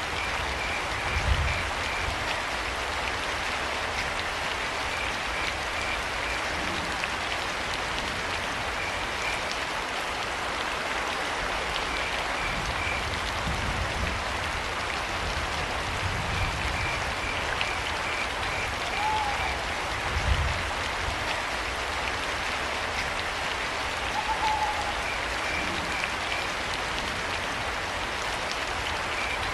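Steady rain with crickets chirping in short trains every few seconds. Two brief arching calls sound in the second half, with an owl plausibly making them, and a few low thumps stand out around one second in and again about twenty seconds in.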